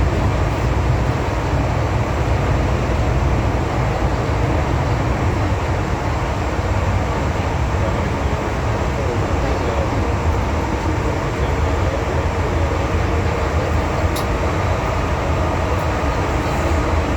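Steady rumble of an MTR M-Train metro car running at speed through a tunnel, heard from inside the car: wheels on rail and running gear, with one short sharp click about fourteen seconds in.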